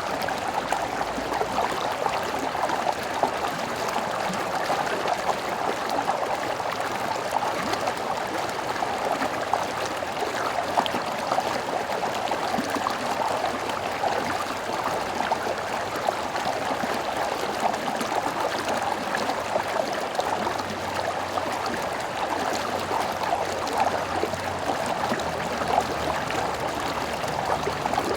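A stream flowing and babbling over stones, a steady continuous rush of water with small gurgles and splashes.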